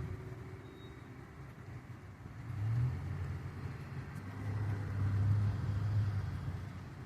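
A motor vehicle's engine rumbling low, swelling louder about three seconds in and again for a longer stretch near the end.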